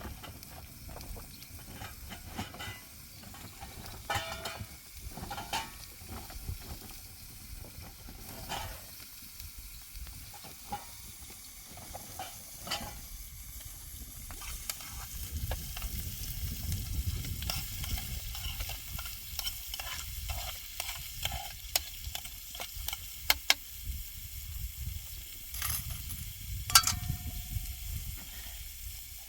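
Sizzling, as of food frying, with many scattered sharp clicks and taps throughout.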